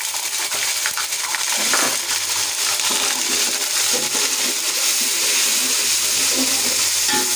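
Ginger-garlic paste frying in hot oil with onions, tomatoes and spices in an aluminium pot, a loud steady sizzle, while a spoon stirs and scrapes the pot. This is the masala being fried (bhuna).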